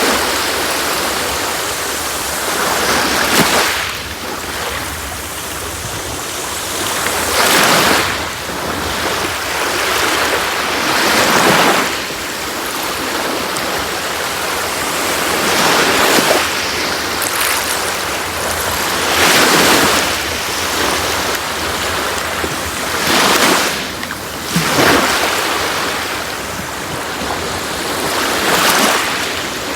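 Sea waves breaking and washing up a beach, the surf swelling about every four seconds over a steady hiss of water.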